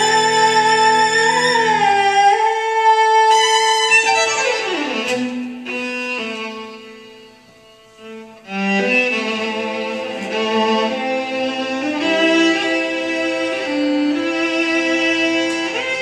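Celtic fiddle tune played on solo violin with a string ensemble accompanying. About four seconds in, the violin slides down in pitch and the music fades low, then the strings swell back in with sustained notes.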